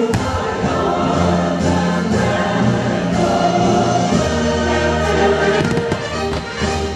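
Choir singing with an orchestra, the patriotic soundtrack of a fireworks show, with fireworks bangs mixed in.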